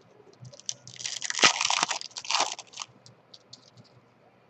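Baseball trading cards and their pack wrapping being handled: a dry crinkling rustle with small clicks, from about a second in until nearly three seconds.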